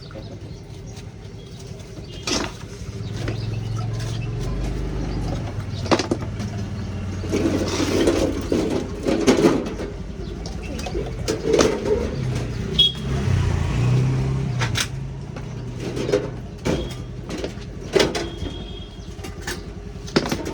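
Street ambience: a motor vehicle engine running low for several seconds in the middle, with repeated sharp clicks and taps and faint voices.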